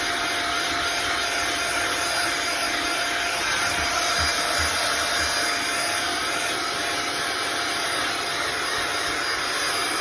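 Deerma DX118C handheld cordless vacuum cleaner running steadily with a constant motor whine, sucking up sawdust and wood debris, with a few faint knocks of the nozzle against the surface about four to five seconds in.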